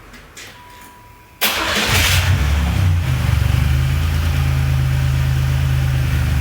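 Car engine cranking and starting about a second and a half in, then idling steadily, just after a short electronic tone. Its oil has been dosed with transmission fluid and kerosene as a flush for what the owner gambles is a noisy lifter.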